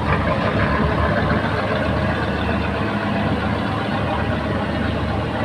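A ship's large diesel engine running steadily, with a low, even hum.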